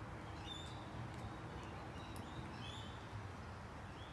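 Faint, short bird chirps every second or so over a steady outdoor background hum.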